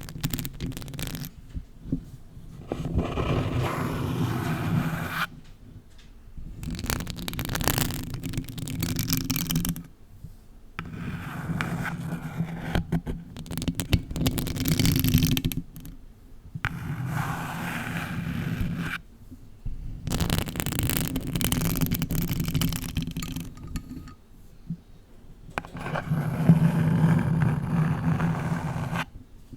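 Long acrylic nails scratching a box close to the microphone, in bouts of a couple of seconds with short pauses between.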